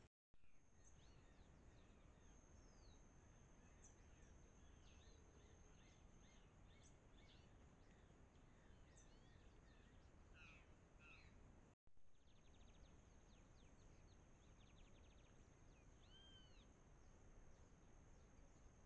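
Near silence: faint outdoor ambience with scattered bird chirps and calls over a low hiss, and a steady thin high-pitched tone throughout.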